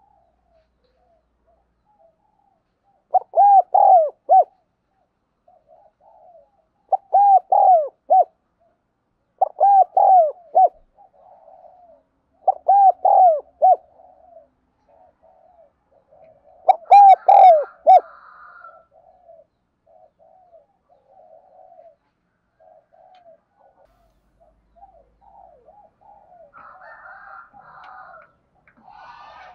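Spotted dove cooing: loud phrases of three or four coo notes each, repeated about every three seconds five times, with softer coos between them and running on more quietly after that.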